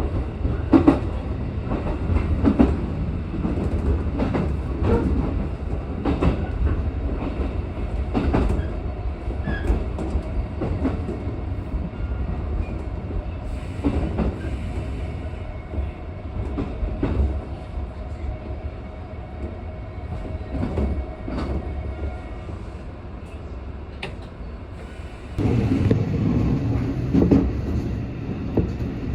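Train running on rails, heard from inside the passenger car: a steady low rumble with the wheels clicking over rail joints. The noise grows noticeably louder near the end.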